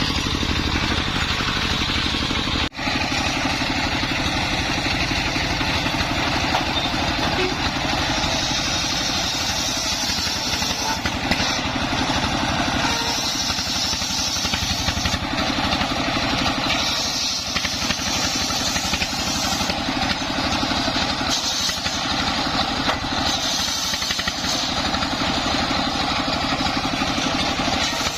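Dongfeng 24 hp diesel engine running steadily under load, driving a homemade circular sawmill, with a dense steady hiss over its rapid firing pulse. The sound drops out for an instant about three seconds in.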